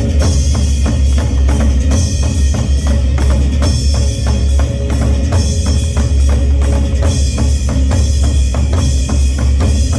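Korean folk drums played together in a fast, steady rhythm, about four or five strikes a second, with heavy deep strokes under sharper hits.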